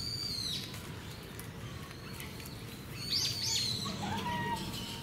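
Outdoor bird calls: a high call that drops quickly in pitch at the start, then two sharp high chirps a little after three seconds in, over a low steady background murmur.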